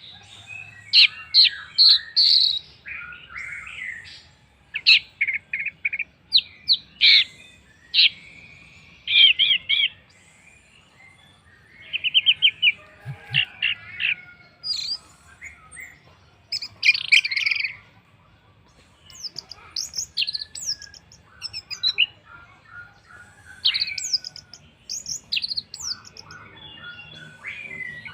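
Orange-headed thrush singing: a varied run of short phrases of quick whistled notes and trills, with brief pauses between them.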